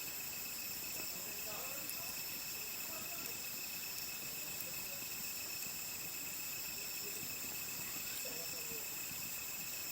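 Crickets and other night insects trilling in a steady chorus at several high pitches at once. Faint voices murmur underneath.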